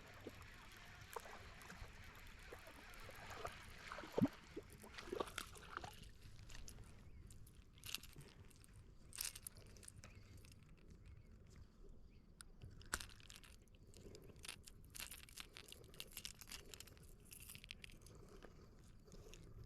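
Faint scattered clicks and taps over a low background hiss, with a few sharper taps about four seconds in and near the middle, and brief soft sloshes of water.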